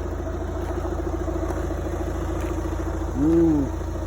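A 2014 Volkswagen Golf TDI's 2.0-litre turbodiesel four-cylinder idling steadily. About three seconds in comes a short "ooh"-like vocal hoot that rises and falls in pitch, the loudest sound here.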